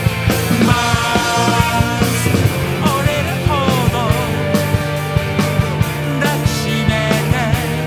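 Rock band music: drums and bass under a lead electric guitar that bends its notes up and down, with no singing heard.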